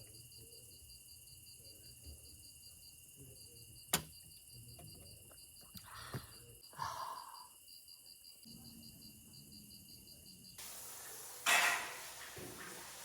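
Night insects calling: one steady high trill and another high chirp pulsing rapidly and evenly. There is a sharp click about four seconds in, and a loud burst of noise near the end.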